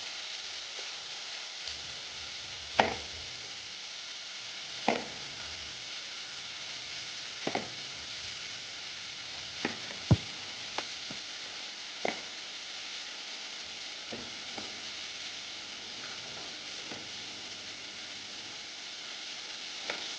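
Steady sizzling of fish frying in oil in a pot, with sharp knocks every second or two through the first half and fewer later on.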